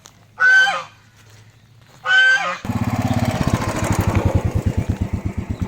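Two short honks, then a motorcycle engine running with fast, even exhaust pulses that cuts off abruptly.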